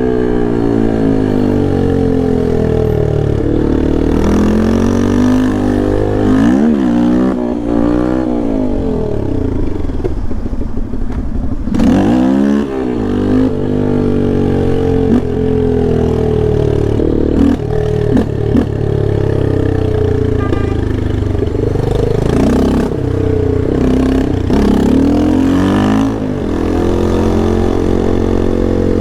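Yamaha Lander 250's single-cylinder engine being ridden hard, its pitch climbing under throttle and dropping at each gear change or lift-off, over and over.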